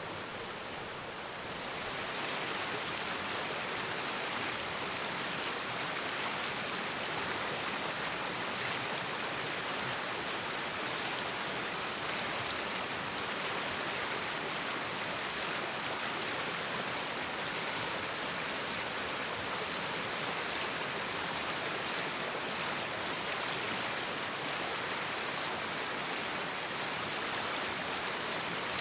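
A stream running: a steady rush of flowing water that gets louder about two seconds in and then holds even.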